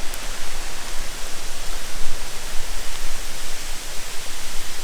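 Waterfall's falling water making a loud, steady rushing noise with no break.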